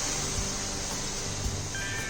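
Water hissing and sizzling in a hot pan, fading gradually, over background music with a soft steady beat.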